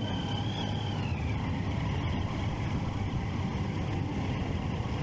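Triumph Street Triple 675's inline three-cylinder engine running steadily with a low rumble, with a thin high whine that drops in pitch about a second in.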